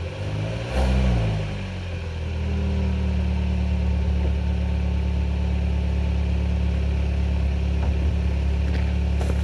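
2014 Hyundai Sonata's 2.4-litre four-cylinder engine heard at the tailpipe, warming up after a cold start: a short rev about a second in that falls back, then a steady idle.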